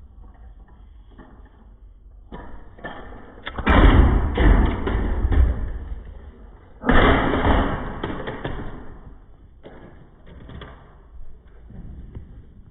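Thumps, knocks and rough rustling of a small plastic toy vacuum being handled close to the microphone, loudest in two stretches that start suddenly about three and a half and seven seconds in.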